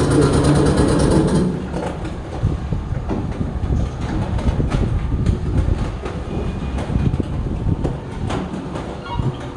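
Mortar-spraying pump machinery running. A steady motor hum drops away about a second and a half in, leaving an irregular rattling clatter.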